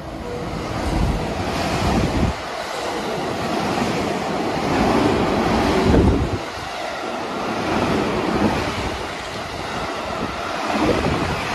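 Out-of-service electric train running through the station platform at speed without stopping: a loud rush of wheel-on-rail noise and moving air, swelling and easing as the cars go by, with wind buffeting the microphone.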